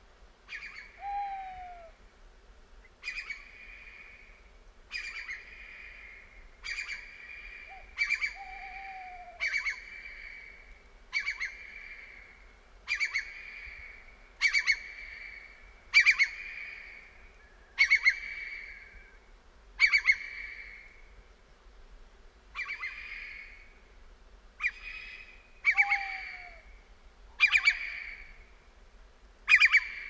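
A bird repeating a harsh call about every two seconds, each call starting sharply and trailing off. A fainter, lower falling note from another bird comes in a few times.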